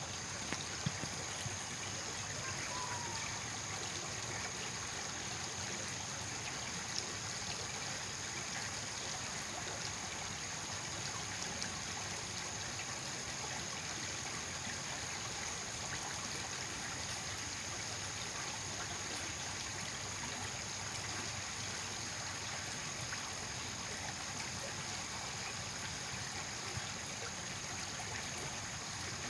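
Steady, unbroken sound of trickling, flowing water, with a few faint ticks near the start, played as a white-noise sleep sound.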